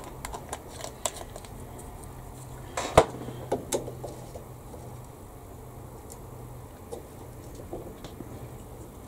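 Small hard clicks and clinks of paint bottles and tools being handled on a modelling bench, with one sharp knock about three seconds in, over a steady low hum.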